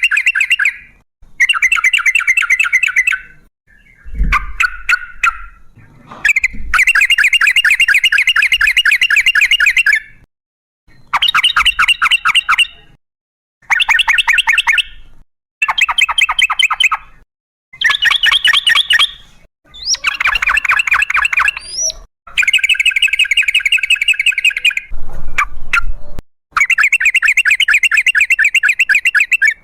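Yellow-vented bulbul (trucukan) singing a fast, rolling, chattering song in repeated bursts of one to three seconds with short pauses between them.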